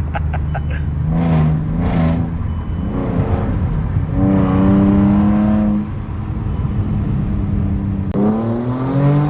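Muffler-deleted Mercedes-Benz C300 accelerating hard through several pulls, its unsilenced exhaust note climbing in pitch and dropping back at each gear change, with a fresh rising pull near the end.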